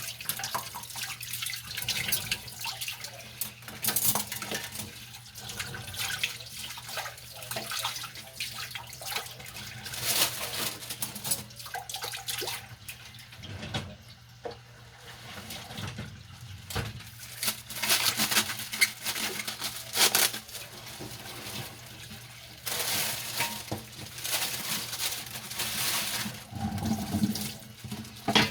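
Dishes being washed by hand at a sink: tap water running in spells and splashing, with scrubbing and small knocks of dishes being handled and rinsed.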